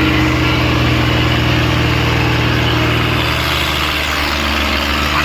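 Tractor diesel engine running steadily, with a low, even firing rhythm.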